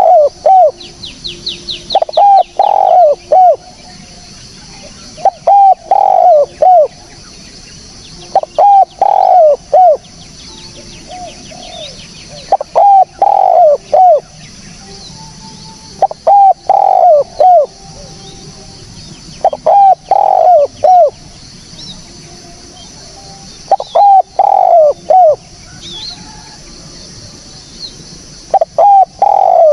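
Spotted dove (tekukur) cooing: loud phrases of three or four short clear coos, repeated about every three and a half to four seconds, eight times.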